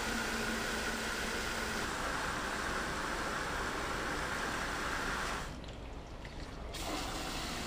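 Water running steadily into a bucket being washed out with bleach, with a brief drop in the sound about five and a half seconds in.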